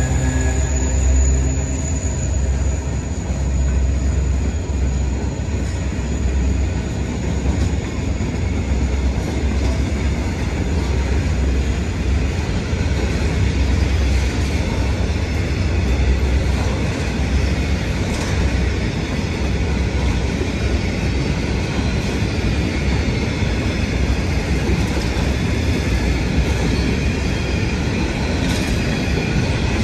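Grain train's hopper wagons rolling past at speed: a steady, heavy rumble of wheels on rail with occasional wheel clicks. The diesel drone of the locomotives fades away in the first couple of seconds.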